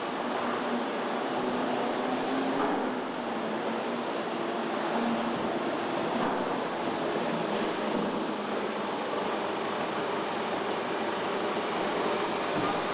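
Steady machinery noise of a truck assembly plant: a dense, even hum with a few faint steady tones and an occasional light click.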